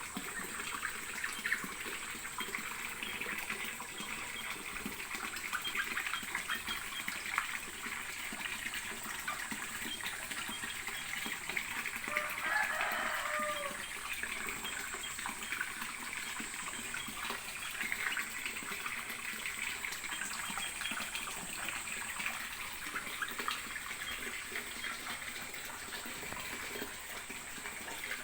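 Water running and splashing steadily, with fine crackling spatter throughout. A short pitched call sounds briefly about twelve seconds in.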